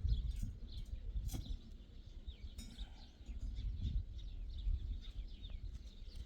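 Birds chirping many times in quick short notes over a low rumble, with a sharp click about a second in and another near the middle.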